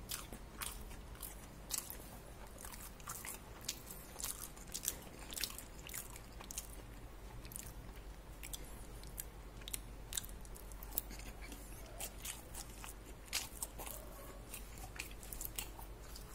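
A person chewing a crispy fried-chicken burger close to the microphone: irregular crunches and wet mouth clicks, with no talking.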